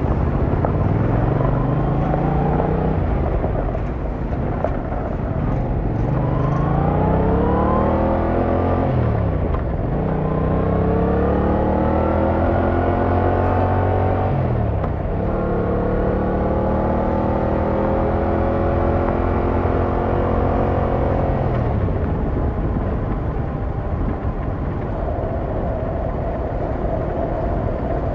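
Yamaha MT-07's 689cc parallel-twin engine heard from the rider's seat, accelerating with rising revs; the pitch drops sharply twice as it shifts up, then climbs again. Near the end the revs ease off to a lower, steadier note, with wind and road noise throughout.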